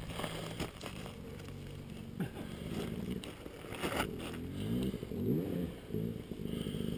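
A dirt bike engine running steadily at idle, with a few clicks and scrapes of a stick in dry brush.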